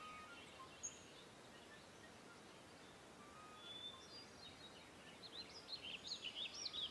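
Faint background hiss with small birds chirping: a few scattered chirps, then a quick run of short chirps in the second half.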